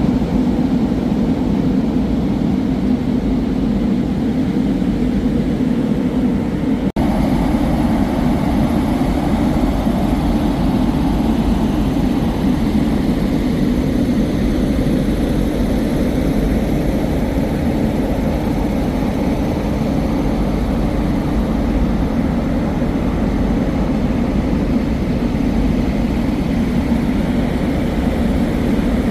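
Steady rumble of a moving vehicle, with a momentary break about seven seconds in.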